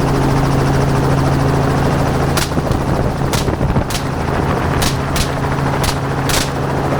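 Helicopter running steadily in flight. From about two seconds in, seven sharp gunshots are fired over it at uneven spacing.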